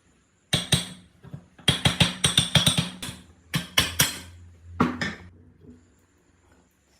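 Sharp knocks or strikes, about a dozen in quick irregular groups, each with a short ring, starting about half a second in and stopping about five seconds in.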